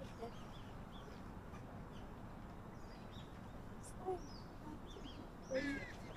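Birds chirping in an aviary: short, high chirps about once a second over a steady low background hum, with a louder call near the end.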